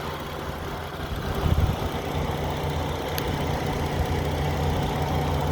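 1996 Subaru SVX's 3.2-litre flat-six engine idling steadily, with a brief low swell about a second and a half in.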